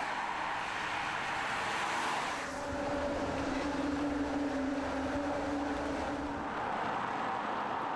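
Car on the road: a steady rush of tyre and road noise, with a steady engine drone joining about two and a half seconds in and fading out some four seconds later.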